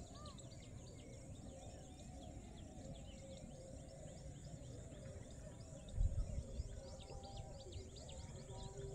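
Rural outdoor ambience of many small birds chirping continuously in quick, short calls. A brief low rumble on the microphone about six seconds in.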